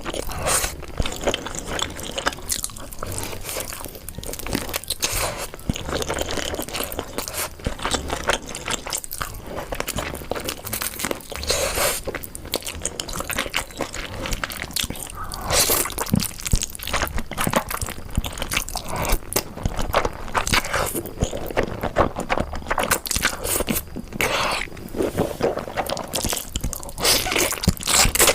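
Close-miked eating sounds: a person biting and chewing crunchy food, with many irregular crunches and smacks one after another.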